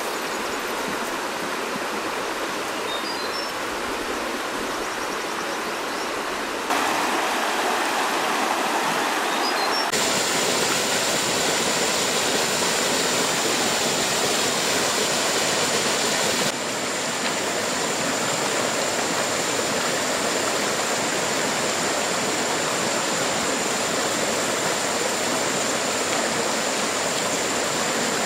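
Steady rush of flowing stream water, changing abruptly in loudness and tone a few times. A thin steady high whine runs through the second half.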